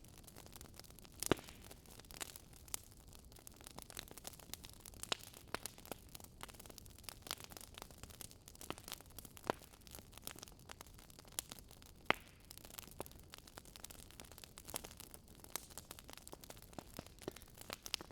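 Wood fire crackling: irregular sharp pops and snaps over a faint steady hiss, with two louder pops about a second in and about twelve seconds in.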